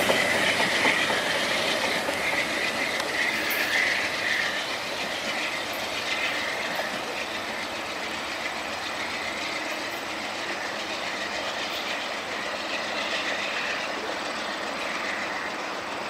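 Wheels of a VIA Rail train of LRC passenger coaches rolling on the rails as the train departs and pulls away, the rail noise fading steadily as it recedes.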